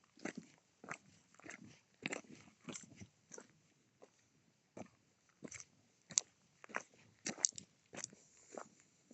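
A grazing cow tearing off mouthfuls of grass: a series of short crunching rips, roughly one or two a second, with a brief pause a little before the middle.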